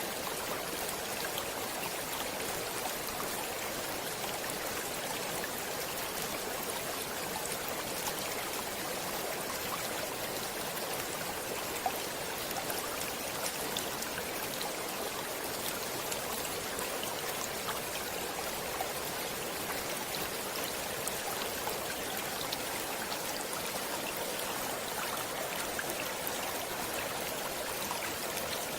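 Shallow stream or river water running over stones, a steady rushing and babbling with small splashes and trickles throughout.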